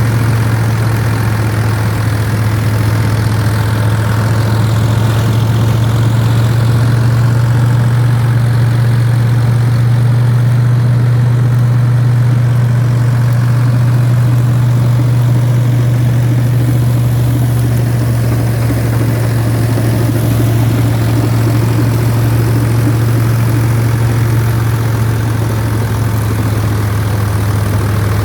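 Ford 3610 tractor's three-cylinder diesel engine running at a steady speed: an even, unchanging drone.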